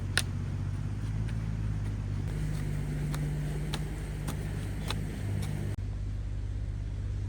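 Mini excavator's engine running steadily, with light clicks or knocks on top, several of them about every half second.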